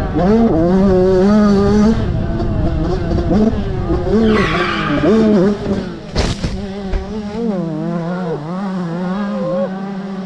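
Engine of a motor vehicle, most likely a motorcycle, running with its pitch rising and falling as the throttle changes. About four seconds in there is a brief hiss, and about six seconds in a single sharp bang.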